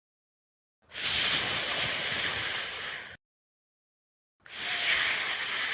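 A person sounding a long, unvoiced phonics "fff", the f sound, with breath hissing between teeth and lower lip. It is held for about two seconds, twice, with a silent pause between.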